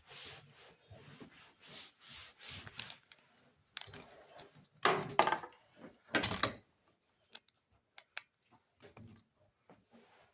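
Handling noises from work at close range: a run of soft rubs or scrapes, then two louder scraping sounds about five and six seconds in, followed by a few light clicks.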